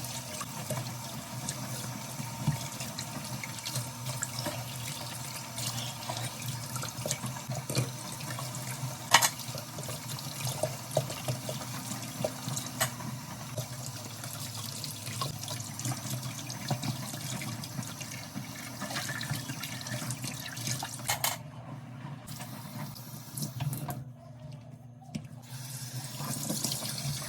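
Tap water running into a kitchen sink during hand dishwashing, with scattered clinks and knocks of dishes, one sharper knock about nine seconds in. The flow breaks off briefly twice near the end.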